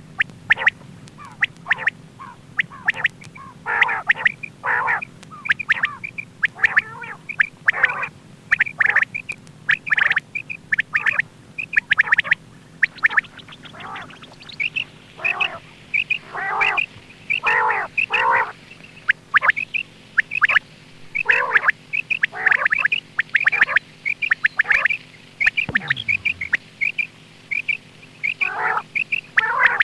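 Quail calling over and over in short, harsh notes, several a second with brief pauses, over a faint steady hum.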